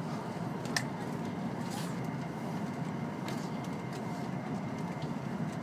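Steady low rumble of a W7 series Shinkansen train running, heard inside the passenger cabin, with a few light clicks.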